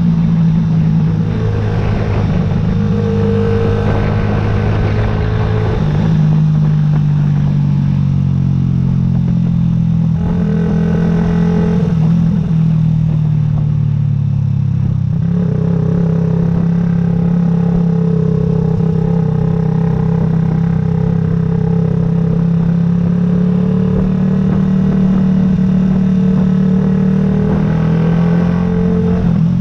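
Yamaha YZF-R125's single-cylinder four-stroke engine running steadily while riding, its pitch shifting a few times with changes in throttle.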